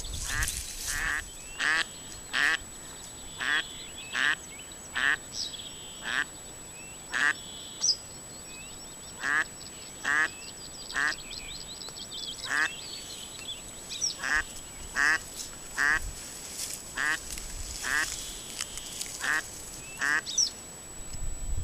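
A bird calling over and over, short rasping calls about one a second with a brief pause partway through, while smaller birds chirp higher up.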